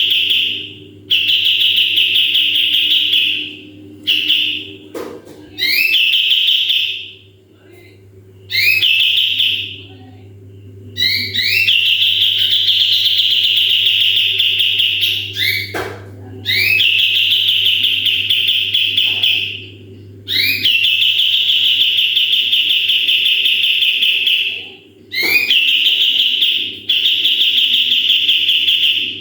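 Kapas tembak songbird singing its rapid-fire 'tembakan' song: repeated bursts, each opening with a quick upward sweep and then holding a fast, high, buzzy trill for one to four seconds, with short pauses between. A steady low hum runs underneath.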